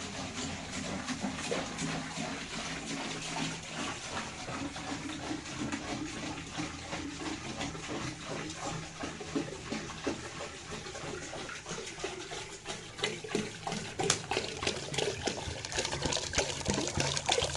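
Water running and splashing, with many small knocks and clicks mixed in.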